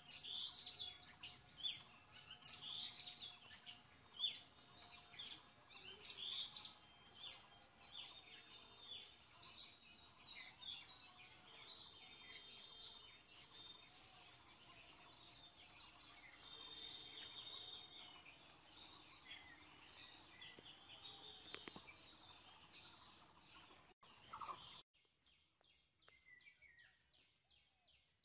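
Birds chirping, many short high calls over a faint steady high-pitched hum. Near the end it cuts abruptly to a quieter background of even ticking, about three a second, under the same high tone.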